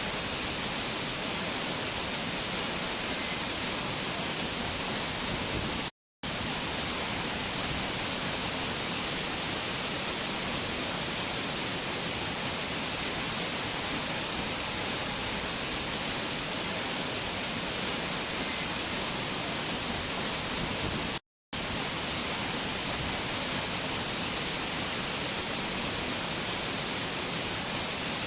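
Waterfall: a steady, even rush of falling water, cutting out to silence for a split second twice, about six seconds in and again about twenty-one seconds in.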